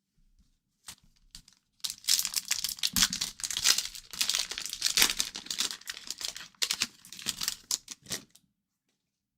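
Plastic trading card pack wrapper crinkling and tearing as it is handled and opened. A couple of faint ticks come first, then a dense run of crackling rustles lasting about six seconds.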